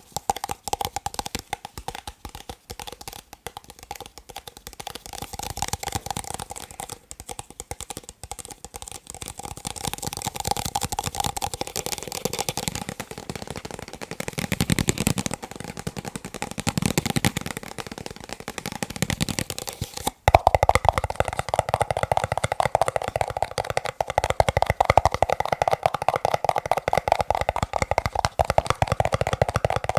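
Fast, dense tapping on plastic cups, a rapid stream of light clicks. About twenty seconds in it breaks off briefly and resumes with a more ringing, hollow tone.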